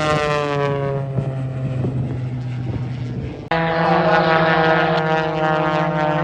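Propeller engine of an aerobatic airplane droning past, its pitch falling as it goes by; about three and a half seconds in the sound breaks off abruptly into a louder, steady-pitched drone.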